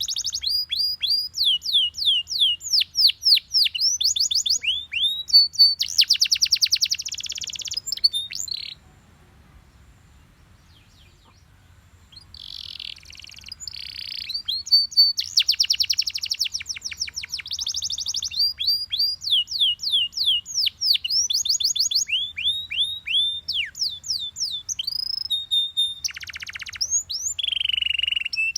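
Canary singing: fast series of repeated high notes that sweep downward, mixed with rapid trills, breaking off for about three seconds about a third of the way in before starting up again.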